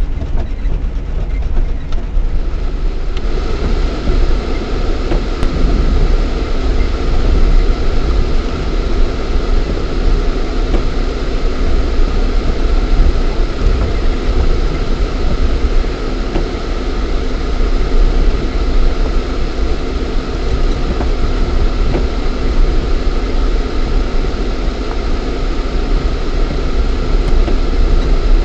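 Lada Niva 4x4 with its 1.7-litre four-cylinder engine running while driving off-road, heard from inside the cabin as a steady low rumble of engine, drivetrain and tyres. The rumble grows rougher about three seconds in.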